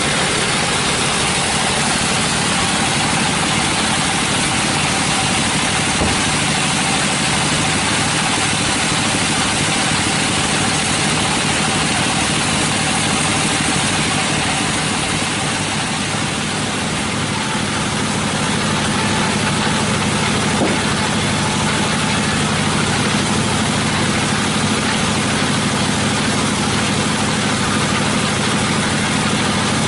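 Sawmill machinery running steadily: an engine-driven saw with a low engine hum under a loud, even noise.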